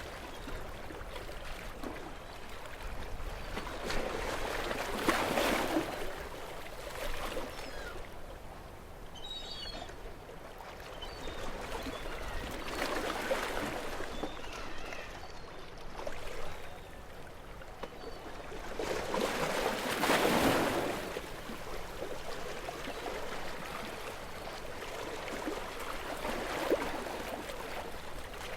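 Gentle sea waves washing in, swelling and falling every few seconds, with the strongest surges about 5, 13 and 20 seconds in.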